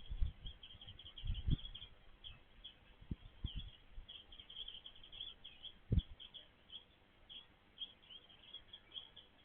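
Small birds chirping: quick runs of short, high notes, over and over. A few low thumps cut in, the loudest about six seconds in.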